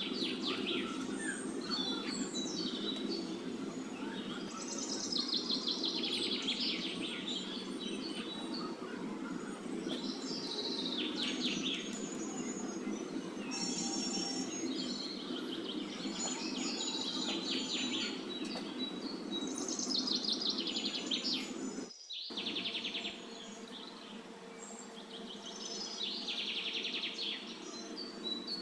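Birds chirping in short, repeated trilling calls that fall in pitch, every two or three seconds, over a steady low hum, with a brief dropout about three-quarters of the way through.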